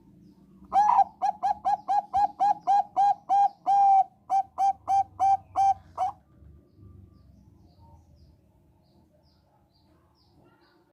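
Zebra dove of the Thai-bred 'Bangkok' line singing: a quick run of about twenty short, clear coos, some three a second, with one longer note in the middle, stopping after about five seconds.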